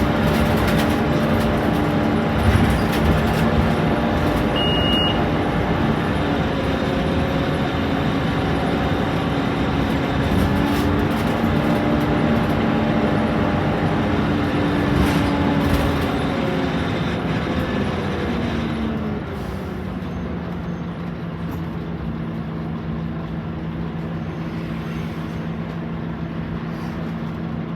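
Scania K230UB Omnilink bus's five-cylinder diesel running under way, heard from on board: its pitch shifts up and down as it pulls through the gears, then drops to a lower, quieter steady tone about two-thirds of the way through. A short electronic beep sounds about five seconds in.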